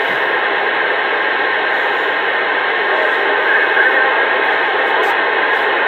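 Steady rushing static from a CB radio's speaker, a hiss with the narrow, thin sound of radio audio. It holds level throughout, as from an open channel or a keyed-up transmission with no voice.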